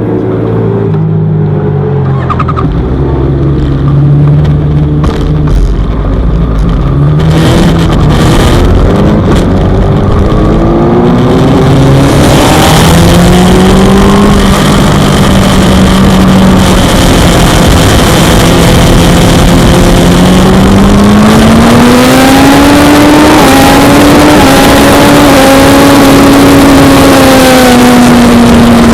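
Suzuki GSX-R600's inline-four engine running, first at low revs, then building speed with the engine note rising slowly and unevenly. Wind rush grows in from about twelve seconds on.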